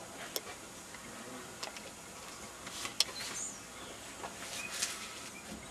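Scattered light clicks and knocks of hand-washing gear against a car, the sharpest about three seconds in, over a faint steady hiss.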